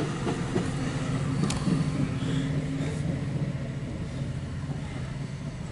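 MARC commuter train's multi-level passenger cars rolling past on the rails: a steady low rumble with a few wheel clicks, one sharp click about a second and a half in, slowly fading toward the end.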